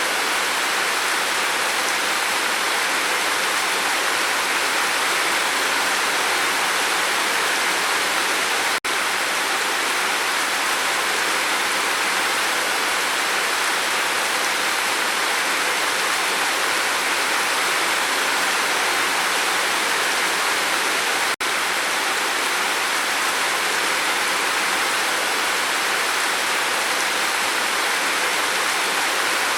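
Steady, dense rain falling on a roof, an even hiss that cuts out for an instant twice.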